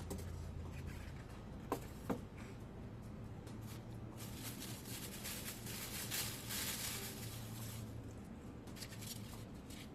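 Parts and packaging being handled: two sharp clicks about two seconds in, then the rustle of packaging being moved about.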